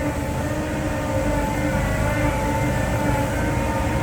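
Diesel engine of a loaded six-wheel dump truck running hard under load as it tries to pull away through sand, a steady engine note.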